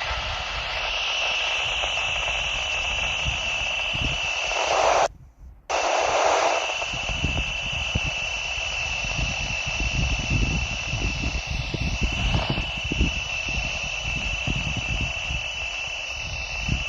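Icom IC-E91 handheld receiver tuned to a UHF military satellite channel, giving out hiss with a steady high whistle through it. The audio drops out for about half a second some five seconds in, and irregular low rumbling sits under the hiss after that.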